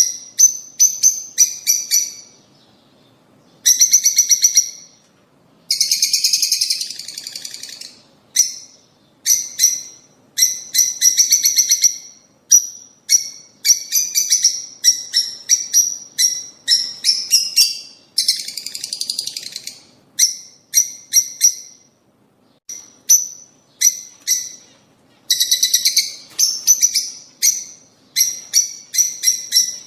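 Rosy-faced and Fischer's lovebirds calling: rapid runs of sharp, high chirps broken by short pauses, with a few longer harsh, chattering phrases lasting a second or two.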